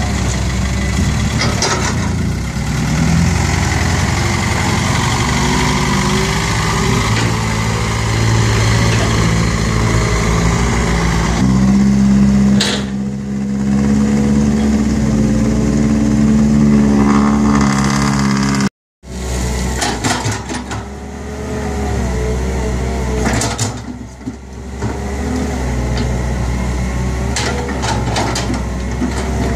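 Six-wheel dump truck diesel engine running, raised to higher revs and held there for several seconds about midway. The sound breaks off abruptly about two-thirds of the way through, and engine running resumes straight after.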